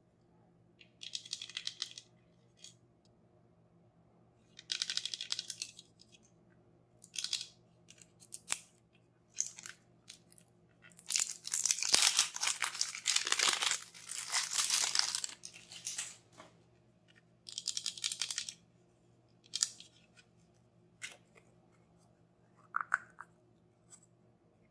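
Toy packaging being torn and crinkled open by hand in short rustling bursts, with one longer, louder stretch of tearing in the middle.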